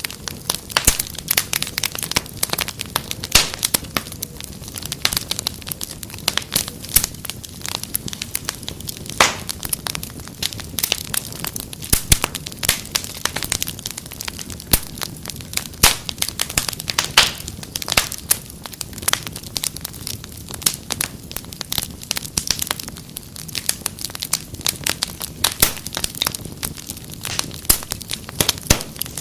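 Wood fire crackling in a fireplace: frequent, irregular sharp pops and snaps over a low steady rumble of the flames.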